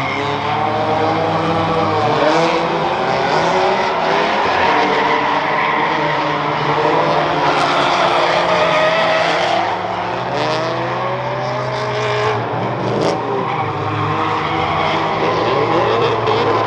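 Several drift cars sliding together, their engines revving up and down over the noise of tyres squealing and skidding.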